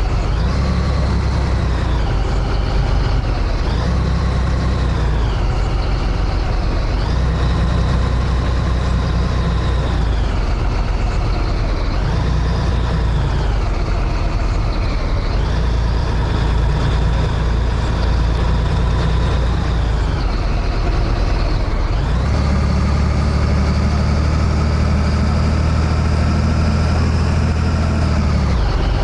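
Scania 113H truck's six-cylinder diesel engine running on the road, its revs dropping and climbing again every few seconds, with a change in engine note about 22 seconds in.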